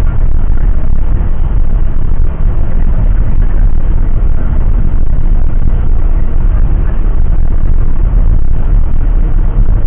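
Loud, steady rumble of jet airliner noise heard from inside the cabin, engines and airflow together, with no breaks.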